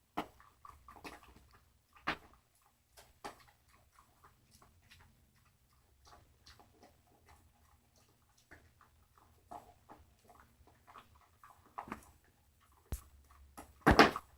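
A dog chewing and gnawing on a bone treat: irregular crunches and clicks, with a louder burst of knocks near the end.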